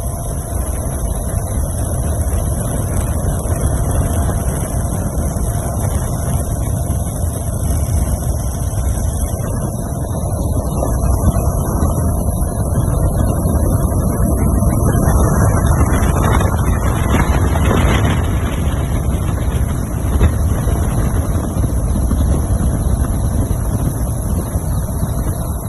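Loud, steady low rumble with wind buffeting the microphone.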